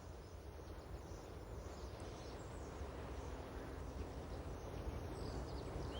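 Faint outdoor ambience: a steady low rumble with a few faint bird chirps, growing slightly louder toward the end.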